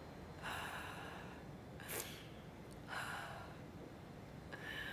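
A person's breathing: four breathy gasps and sighs, roughly a second apart.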